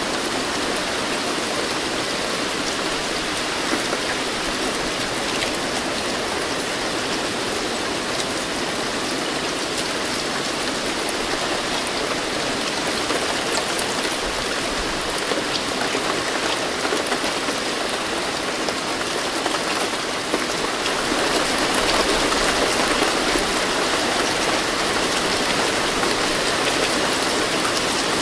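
Steady rain falling, a dense even hiss of drops with no thunder, growing a little louder about three quarters of the way through.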